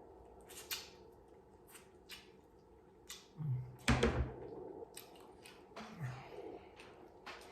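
Close-miked eating sounds: chewing and wet mouth clicks and smacks, irregular and a few a second, with a louder knock about four seconds in. Two short voiced "mm" sounds come between bites.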